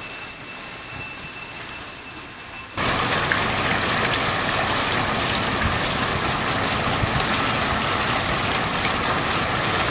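Loud, steady rushing and rumbling noise that comes in abruptly about three seconds in, after a quieter stretch with a few thin high tones.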